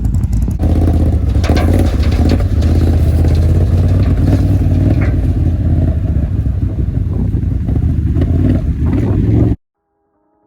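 A vehicle driving on a dirt road: its engine runs steadily with a strong low hum while loose rattles and clatter sound over it. The sound cuts off suddenly near the end.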